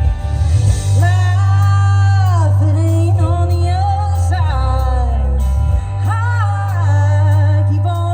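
Live country song: a woman singing a held, wavering melody over an accompaniment with a strong, sustained bass line.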